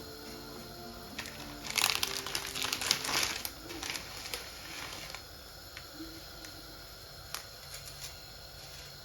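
Dry whole wheat spaghetti being handled into a pot: a burst of crackling and crinkling about two seconds in, lasting a second and a half, then a few scattered light clicks.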